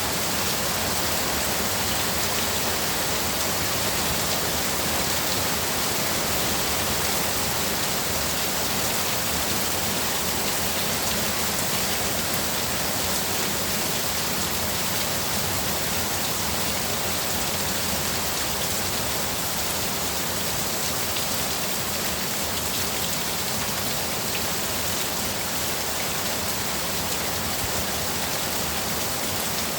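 Heavy rain pouring down steadily, an even rushing hiss with no breaks.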